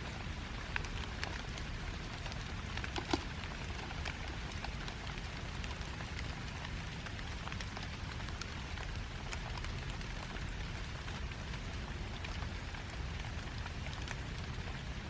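Heavy rain falling steadily, with scattered louder drops ticking through it and one sharper tap about three seconds in.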